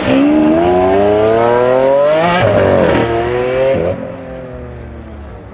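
McLaren 600LT's twin-turbocharged V8 accelerating hard, its pitch climbing steadily, then three quick upshifts in the second half, each dropping the pitch before it climbs again. After the last shift it runs on quieter and steadier.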